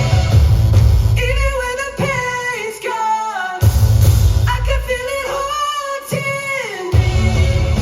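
Male vocalist singing a pop-rock song live over a band. The bass and drums drop out twice for sung phrases and come back in near the end.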